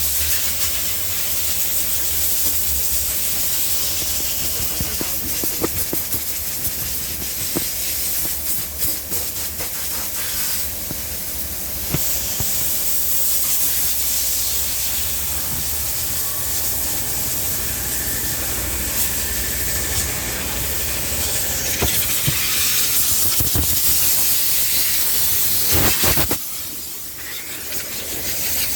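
Car wash water jets spraying, a steady loud hiss with a low machinery hum underneath; the spray cuts out briefly near the end.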